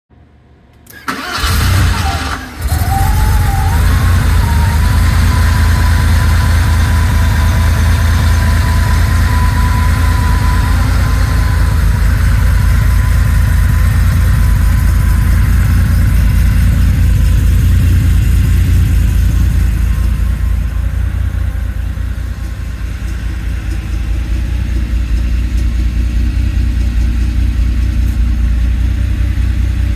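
1988 Porsche 911 Turbo's air-cooled flat-six starting from cold: it fires about a second in, stumbles briefly, then catches and settles into a steady idle. A thin steady whine rides over the idle for the first ten seconds or so, and the idle quietens slightly around twenty seconds in before picking up again.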